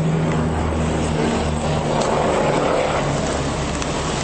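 Steady motor-vehicle engine drone under a loud rushing noise, with low humming tones that fade out about halfway through.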